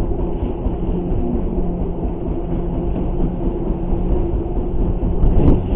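Boat engine running steadily, a constant low hum under the noise of wind and water.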